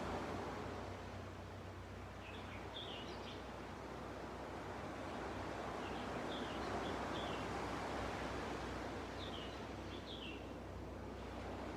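Sea waves washing onto the shore in a steady, swelling hiss, with a small bird chirping in three short bursts, about three, six and nine seconds in.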